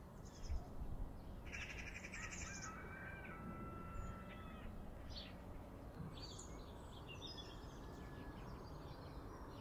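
Birds calling, faint: a harsh, rattling call about one and a half seconds in, then thin whistled notes and scattered short chirps, over a low rumble.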